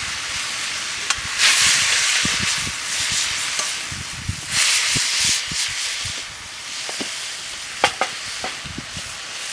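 Food sizzling in a hot pan as it is stir-fried over the fire, the hiss swelling twice, with a few sharp clinks of the utensil against the pan near the end.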